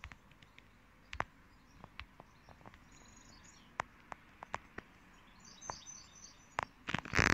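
Faint birds chirping off and on in the background, with scattered small clicks and a loud burst of noise near the end.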